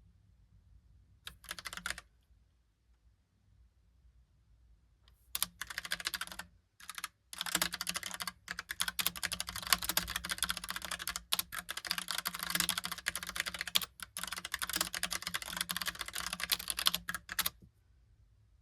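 Typing on a Logitech Pop Keys typewriter-style mechanical keyboard: a short flurry of key clicks about a second in, another after a pause, then a fast, steady run of keystrokes with brief breaks that stops shortly before the end.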